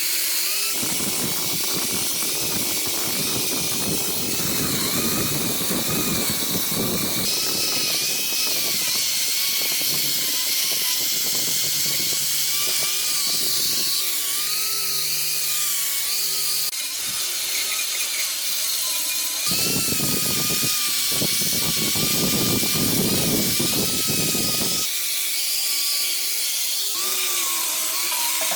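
Handheld electric power tool running throughout, its motor whine wavering in pitch as it is loaded. Two long stretches of grinding against the workpiece, one at the start and one from about two-thirds of the way in, are louder.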